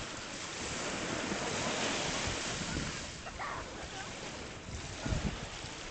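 Sea waves washing, with wind on the microphone; a low gust buffets the microphone about five seconds in.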